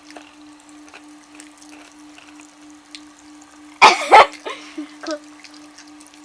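Pop Rocks candy crackling faintly in mouths, a scattering of tiny pops over a steady low hum. About four seconds in comes a loud, brief burst of breathy noise, then a few smaller ones.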